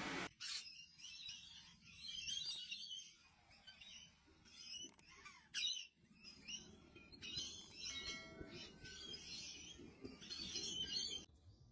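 Several birds chirping and calling in a busy run of short high calls, with a longer pitched call about eight seconds in.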